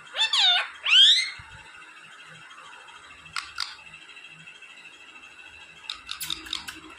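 Parrot giving two loud squawks that glide in pitch in the first second or so, followed by a few short sharp clicks and a quick flurry of them about six seconds in.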